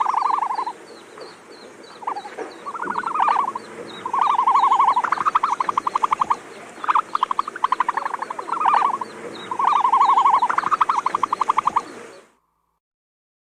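Animal calls: a run of rapid, pulsed trills, each about a second long, repeated every second or two, over a steady, quick, high-pitched ticking. The sound cuts off abruptly near the end.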